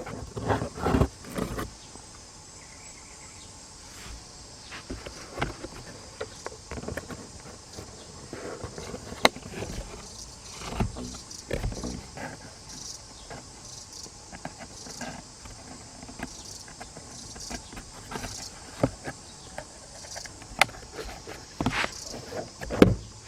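Insects chirring steadily in the background, with scattered knocks and rustles, loudest in the first second or two and near the end.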